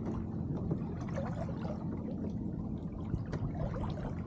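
Water gurgling and splashing along the hull of an Elliott 7.4 sailboat under way: a steady low wash with many small splashes.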